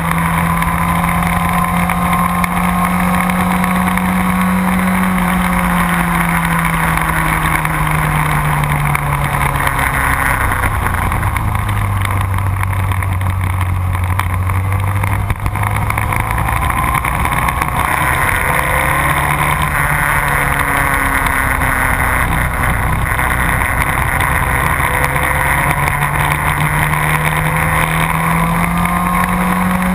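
Motorcycle engine running under way, its pitch falling slowly over about ten seconds and then climbing again, over a steady rush of wind noise. The sound drops out briefly once, about halfway through.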